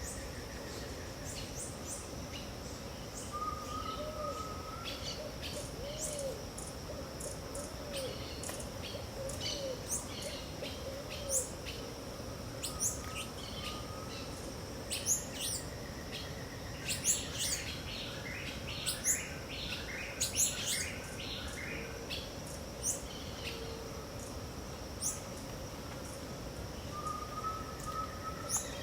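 Dawn chorus of several wild birds in the Pantanal wetland: short sharp chirps, most of them bunched together about halfway through, and a few softer whistled notes, over a steady high insect drone.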